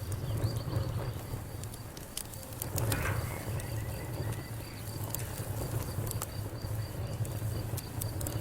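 Wood fire crackling, with scattered sharp pops over a steady low rumble, and an insect chirping steadily and evenly in the background.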